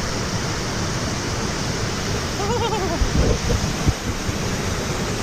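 Steady rush of a waterfall and fast-flowing river water. A short vocal exclamation comes about two and a half seconds in, followed by a few low knocks.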